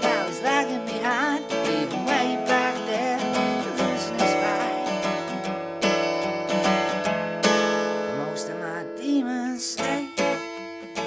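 Instrumental break in a song: strummed acoustic guitar with a wavering lead melody line over it.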